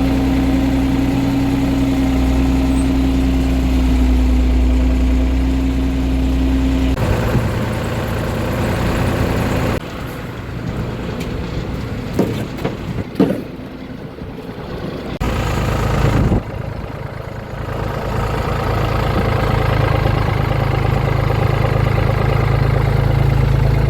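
A heavy farm machine's diesel engine running steadily, with a few sharp knocks in the middle. The engine sound changes abruptly several times.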